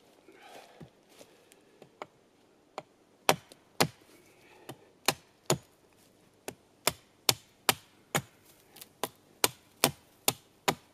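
A tool striking wood again and again, about two or three sharp blows a second, starting about three seconds in after a few faint knocks.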